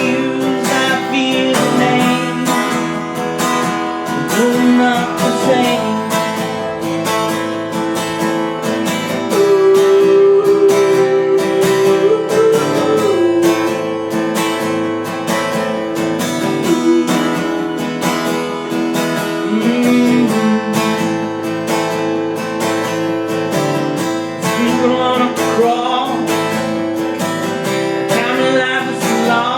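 Acoustic guitar strummed steadily through a song, with no clear words.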